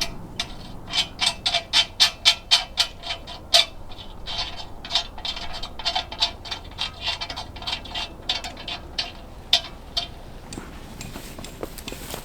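A run of short, sharp knocks, about four a second, loudest in the first few seconds, then going on more unevenly with small pauses.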